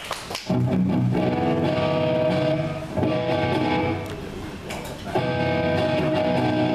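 Electric guitar strumming sustained chords, with a new chord struck about five seconds in after a quieter stretch.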